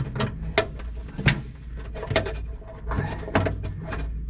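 Scattered light clicks and taps of a bolt, bushing and fuel shutoff valve being fumbled into place by feel, over a low steady hum.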